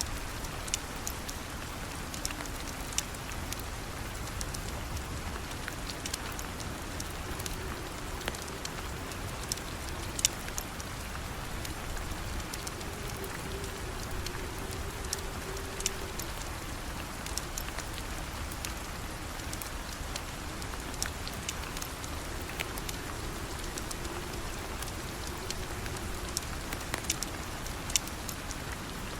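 Steady rain, with scattered sharp clicks and pops now and then.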